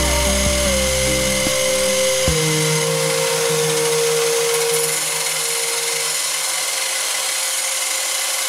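Drill-driven homemade bench grinder running, its stone wheel grinding a steel blade, under background music.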